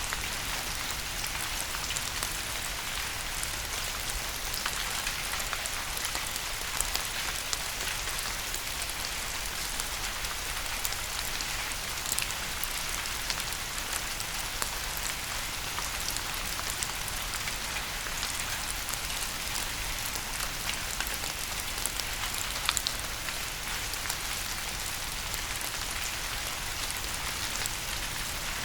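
Steady rain falling on a surface, an even hiss dotted with scattered sharp ticks of individual drops.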